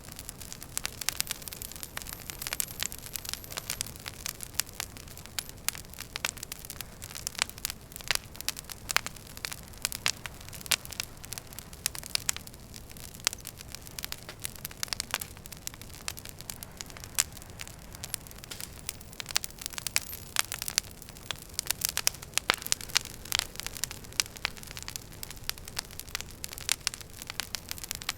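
Wood fire in a fireplace crackling: many sharp pops and snaps scattered at random over a soft low rumble of the burning logs.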